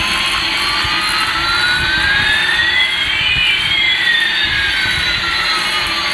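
Jet-engine sound effect: a steady jet hiss with two whines, one rising and one falling in pitch, crossing about halfway through.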